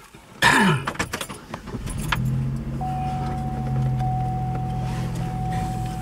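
Keys jangling in the ignition and a car engine catching, then running at a steady idle from about two seconds in.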